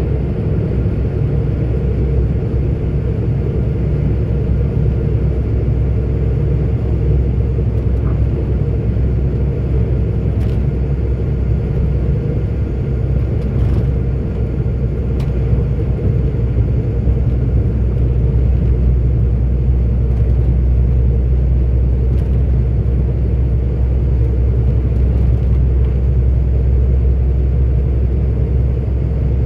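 Steady low drone of a 44-ton articulated truck's diesel engine and tyres, heard inside the cab while cruising along the road.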